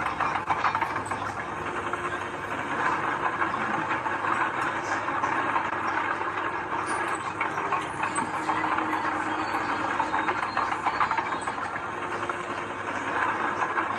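Heavy diesel earthmoving machinery working steadily, its engine running under a dense rattling, crackling mechanical noise.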